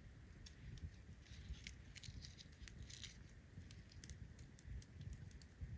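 Faint, irregular crackling and popping of a wood campfire.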